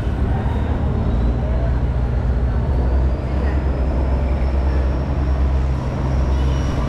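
Diesel engine of a large river boat passing close by: a loud, steady low drone, with a faint high whine slowly rising in pitch.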